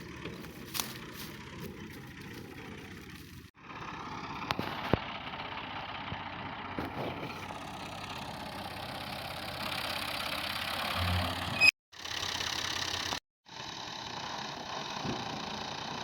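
Tractor engine running steadily while driving a wheat thresher, a mix of engine hum and machine hiss that breaks off abruptly a few times.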